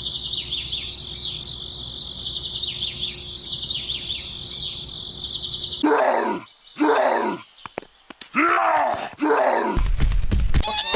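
Birds chirping in quick high trills for the first half. From about six seconds in, a large animal gives two or three long, groaning calls that bend in pitch.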